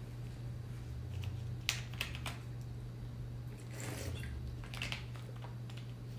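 Quiet room tone with a steady low hum, broken by a few brief soft clicks and short noisy puffs.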